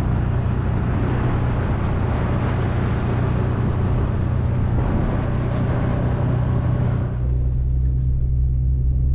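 Motor vehicle running: a steady low engine hum under a broad road-noise hiss. About seven seconds in, the hiss drops away, leaving a lower, steady engine hum.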